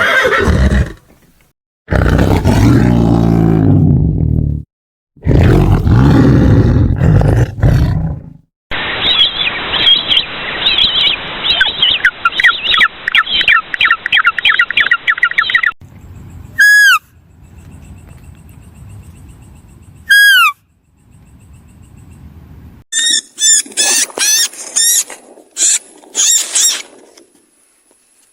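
A run of separate animal calls, one clip after another: two long low calls, then several seconds of rapid chirping, two short falling calls, and a run of quick high chirps near the end.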